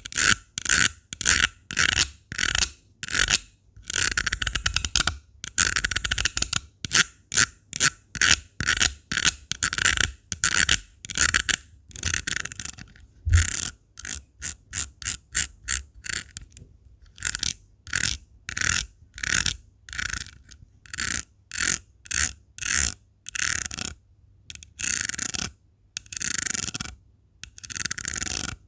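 Rhinestone-covered surface being scratched in short repeated strokes, mostly one or two a second with quicker runs in the middle, each a bright scratchy rasp.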